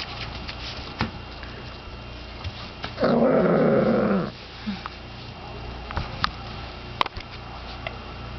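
A Shiba Inu puppy growls once, loud and rough, for just over a second about three seconds in. Light scattered clicks and taps come before and after it.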